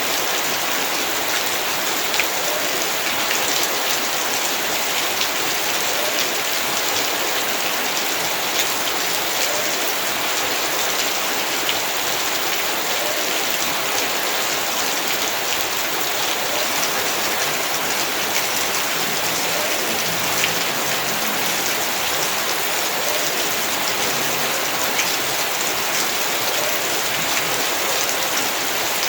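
Heavy rain falling steadily, a dense hiss of drops with many small sharp drop strikes on hard surfaces.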